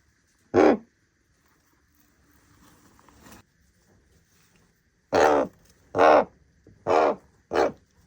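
Common raven calling: one short call, then after a pause of about four seconds a run of four more in quick succession.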